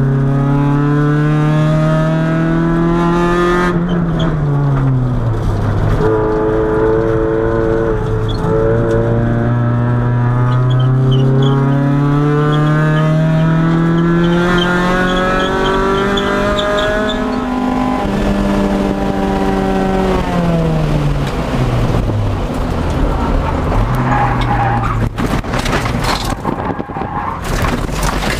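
Honda B20B four-cylinder engine heard from inside the car at speed on track. The revs climb and fall slowly several times. Near the end the engine note drops away and rough scrubbing and rattling noise takes over as the car slides off the track onto dirt.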